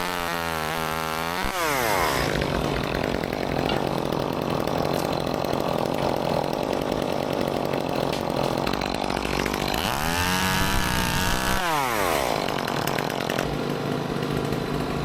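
Gas chainsaw revving up and dropping back twice, once at the start and again about ten seconds in, running steadily with a dense rasping noise in between.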